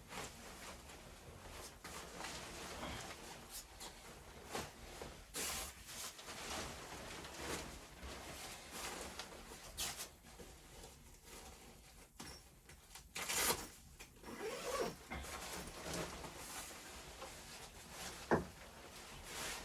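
Irregular rustling and scraping handling sounds with scattered knocks and clicks, the sharpest two about two-thirds of the way through and near the end.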